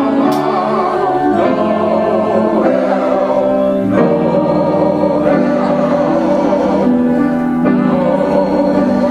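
Church choir singing a passage of a Christmas cantata in rehearsal, with held chords that shift every second or two.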